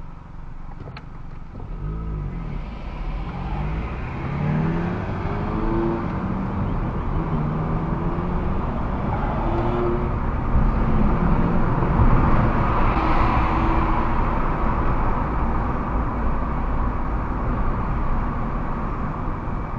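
A car accelerating away, its engine pitch rising in several steps, then steady road and tyre noise as it holds speed.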